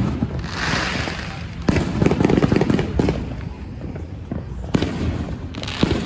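Fireworks going off: clusters of rapid crackling pops, with a hissing fizz about a second in and again near the end.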